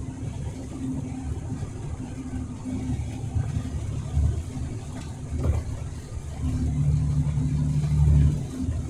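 Truck engine running under way, heard from inside the cab as a steady low drone with road noise, growing louder about six and a half seconds in.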